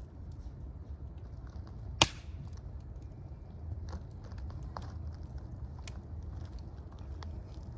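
Fire crackling, with a low steady rumble under scattered small pops and one loud sharp pop about two seconds in.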